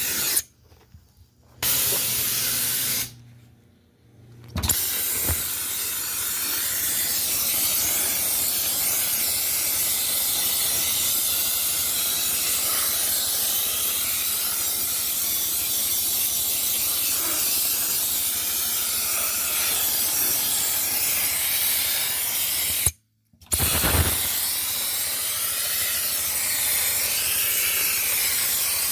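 Dry-ice blasting gun spraying, a loud steady hiss of compressed air and dry-ice pellets, broken by three short stops.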